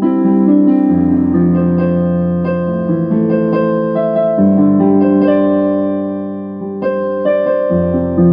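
Electronic keyboard being played: sustained chords that change every second or two over held bass notes.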